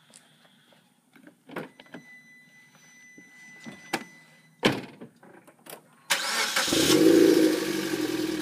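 Suzuki Swift Sport ZC31S's 1.6-litre four-cylinder starting: after a few light clicks and knocks, it cranks briefly about six seconds in, catches and settles into a steady idle through an HKS LEGAMAX aftermarket muffler.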